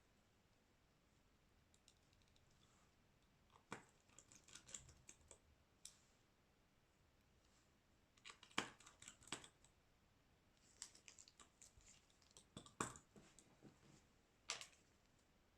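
Faint clusters of light clicks and taps as a Xiaomi Redmi 9A smartphone and small repair tools are handled, with a few sharper clicks about four, nine and thirteen seconds in.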